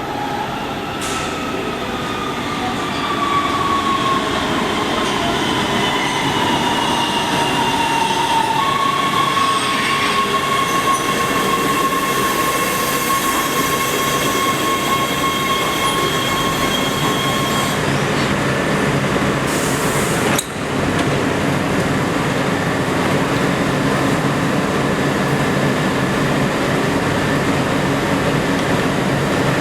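Metro rail train in an underground station, its whine falling in pitch over the first several seconds and then holding steady, over constant running noise. A brief break about twenty seconds in; steady train noise goes on after it.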